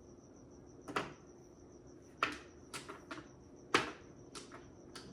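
Mahjong tiles clacking as they are drawn, set down and discarded on the table: seven or so sharp clicks at uneven spacing, the loudest about a second in, at about two seconds and near four seconds.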